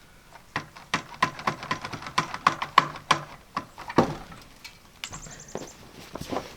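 Irregular clicks and light knocks from hand tools being handled, some with a short metallic ring, with a louder knock about four seconds in and a brief run of rapid high ticks just after five seconds.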